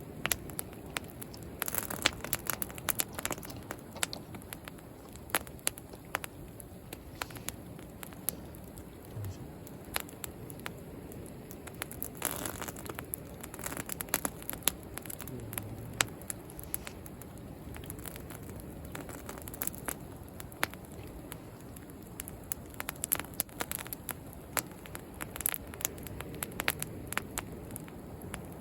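Wood bonfire crackling with frequent sharp, irregular pops and snaps, over a steady low wash of sea waves.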